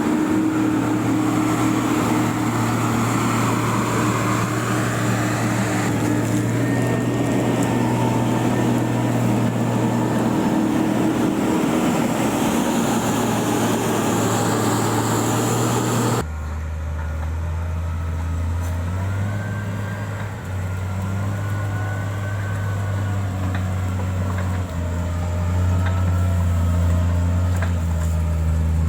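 Heavy-equipment engine running steadily. About halfway through, the sound changes abruptly to a lower, deeper engine note that steps up and down in pitch as the engine is worked.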